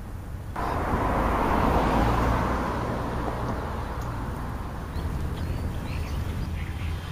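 A passing vehicle's road noise: an even rush that comes in suddenly, peaks after a second or two and fades over several seconds, over a steady low hum. A few faint bird calls come in the second half.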